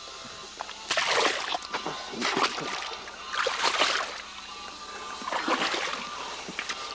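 Water splashing and sloshing in a few irregular bursts.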